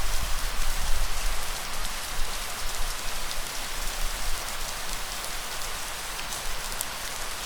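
Steady rain falling, an even hiss of drops, with a low rumble beneath it that is strongest in the first couple of seconds and then eases off.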